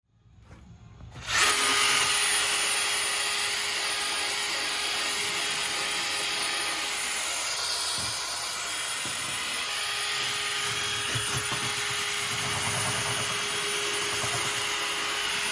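Drill spinning a 6-inch bristle brush against the Jeep's painted sheet-metal fender to scuff the paint, a steady whir with a scrubbing hiss. It starts suddenly about a second in.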